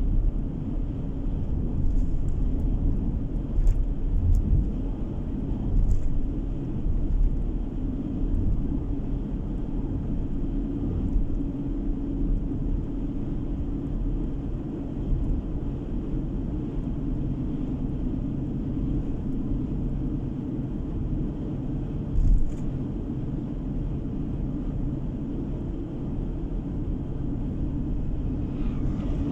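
Steady road noise of a car driving, engine and tyres heard from inside the cabin as a continuous low rumble, with a few brief knocks, the loudest about two-thirds of the way through.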